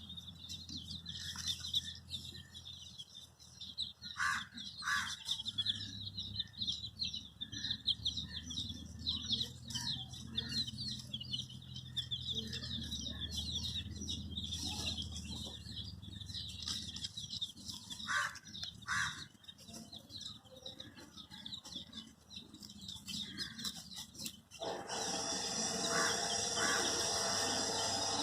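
Many baby chicks peeping in a dense, continuous chorus of high chirps, with a few short lower calls twice along the way. About 25 seconds in, a louder, steady noise joins the peeping.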